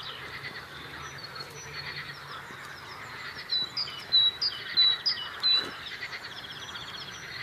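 Outdoor spring chorus of songbirds chirping and trilling, with a run of loud, sharp, high chirps in the middle, over a steady background chorus of croaking frogs.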